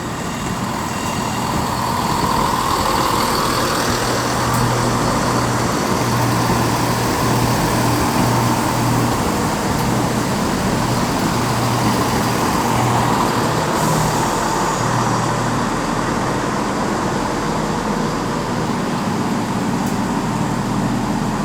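Class 171 Turbostar diesel multiple unit's underfloor diesel engines running steadily with a low, slightly pulsing hum.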